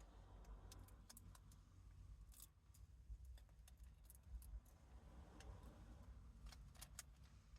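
Near silence with faint, irregular clicks and light rustling of vinyl letter stickers being peeled and handled on their backing sheet.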